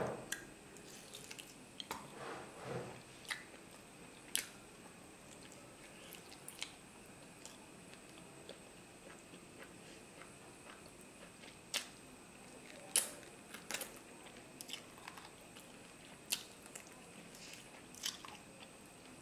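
Close-miked eating sounds of a person chewing mutton curry and rice: soft chewing with irregular wet mouth clicks and smacks, a dense cluster about two to three seconds in and single sharp clicks scattered after.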